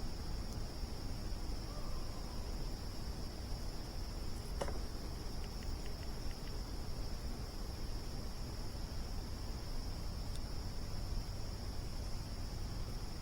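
Crickets chirring steadily in one unbroken high-pitched drone over a low rumble, with a few faint pops from the campfire a little under halfway through.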